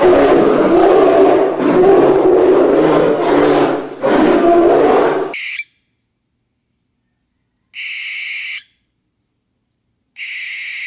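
A bear growling and roaring loudly, with a brief break about four seconds in, cutting off after about five seconds. Then come three short, high, even-pitched whistled owl calls, a couple of seconds apart.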